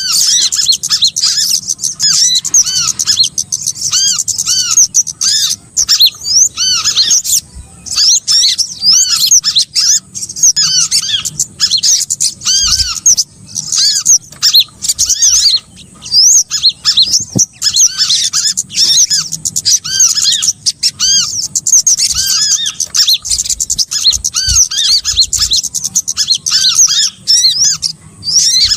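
Bird-lure recording of small songbirds calling: dense, overlapping high chirps repeated several times a second, with short gaps between runs.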